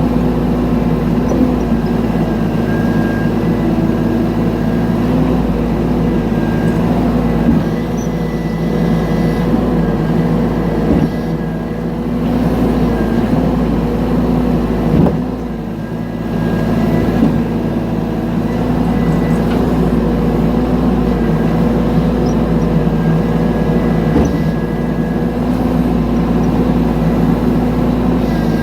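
Mini excavator engine running steadily under work, its level dipping briefly a few times, with a couple of faint knocks around the middle.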